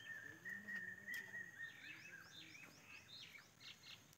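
Faint bird calls: a thin, slightly wavering whistle that fades out about two seconds in, overlapped by a run of quick falling chirps.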